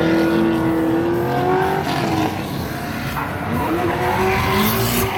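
Drift car engine revving through long rising and falling notes as the car slides, with tires squealing. There is a louder burst of tire noise near the end.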